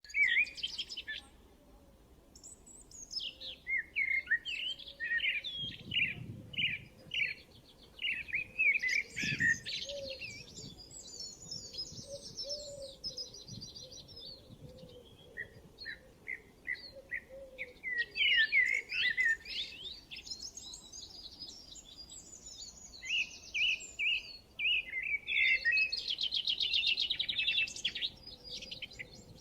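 Songbirds chirping and singing: bouts of quick repeated chirps and rapid high trills, with brief lulls between bouts.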